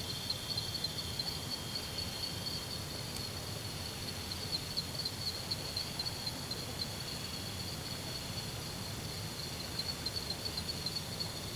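Insects chirping in a high, steady, pulsing trill. A second, lower and fainter trill fades out about two and a half seconds in.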